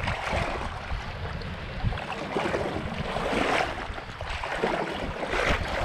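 Moving water with wind buffeting the microphone: an uneven hiss that swells and fades every second or two over a low rumble.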